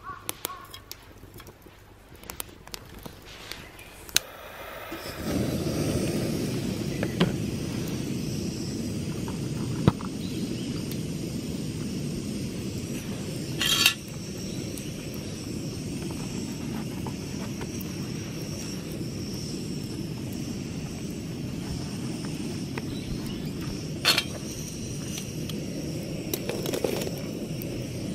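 A few light clinks, then about five seconds in a portable gas burner is lit and keeps burning with a steady rushing flame noise. Occasional sharp clinks are heard over it, the loudest about halfway through and again near the end.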